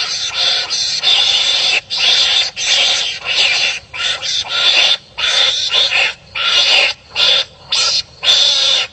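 Animals fighting, giving harsh, rasping calls in quick bursts of half a second to a second, broken by short gaps.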